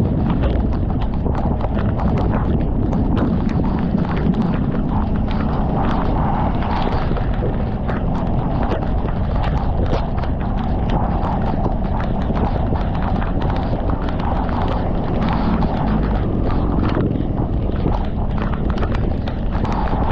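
Riding noise on a motorcycle in heavy typhoon rain: wind and rain rumble steadily on the microphone over a low drone, with a constant patter of irregular taps from raindrops striking.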